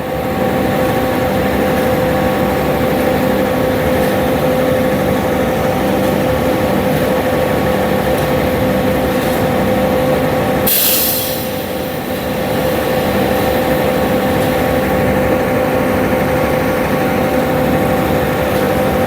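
Concrete truck's diesel engine running steadily with a whine, with a brief sharp hiss about eleven seconds in.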